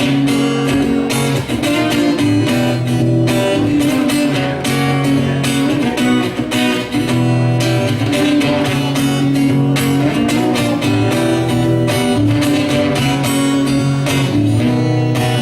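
Acoustic guitar strummed in a steady rhythm: an instrumental break in a song, with no singing.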